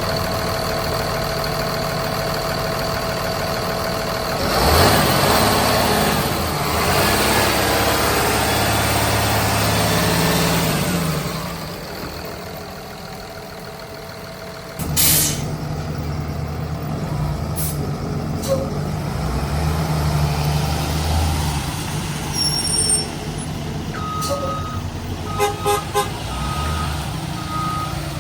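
A 2009 Blue Bird school bus's Cummins 6.7 inline-six turbo diesel idling, then rising in speed for several seconds before settling. After a quieter stretch there is a short loud burst of noise about fifteen seconds in, and the diesel runs steadily again, with a few short beeps near the end.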